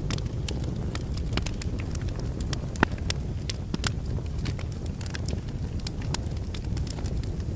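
Logs burning in a fireplace: a steady low rumble of flame with frequent irregular crackles and small pops, one sharper pop a little under three seconds in.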